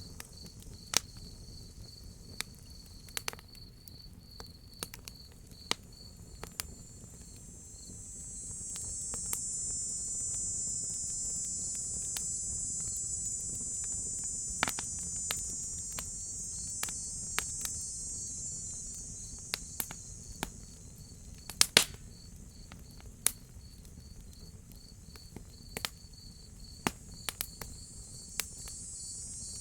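Night insect chorus: crickets chirping in a steady pulsed trill, with a higher cicada buzz that swells in about eight seconds in, fades around twenty seconds, and rises again near the end. A wood fire crackles throughout with scattered sharp pops, the loudest of them about twenty-two seconds in.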